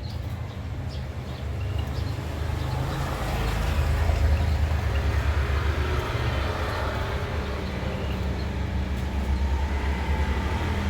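Low, steady rumble of a passing motor vehicle, building over the first few seconds and then holding.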